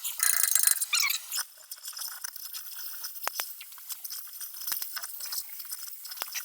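Steel plate being torch-cut, crackling and sizzling: loud and dense for about the first second and a half, then quieter, sparse crackles with a few sharp ticks.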